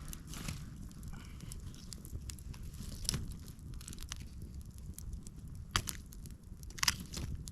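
Campfire burning with scattered crackles and a few louder pops, over a steady low rumble.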